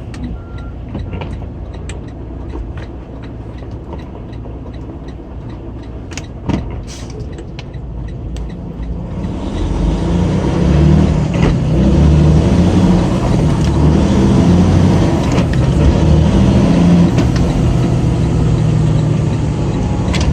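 Semi truck's diesel engine running, with a few sharp clicks partway through; about nine seconds in it gets much louder as the engine pulls harder.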